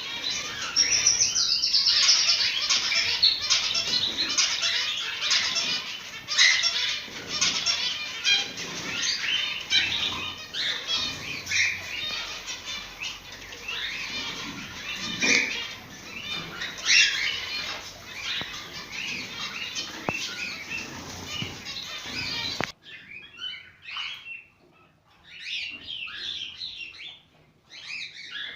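A flock of cockatiels chattering and calling nonstop, with wings flapping among the chirps. A little before the end the sound cuts abruptly to fewer, quieter calls.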